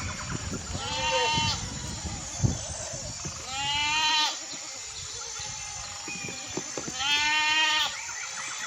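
Bleating livestock, three long wavering calls: one about a second in, one near the middle and one near the end.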